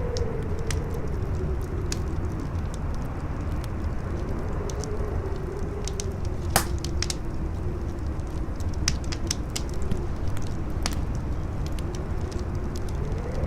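Campfire wood crackling with scattered sharp snaps and one louder pop past the middle, over a low steady rumble. Wind howls through it in a faint tone that slowly rises and falls.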